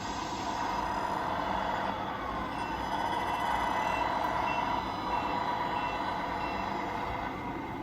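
Reversing beeper of a Tamiya radio-controlled truck's sound unit, sounding a string of short high beeps about two a second that starts a couple of seconds in and stops about a second before the end, over a steady running hum from the model.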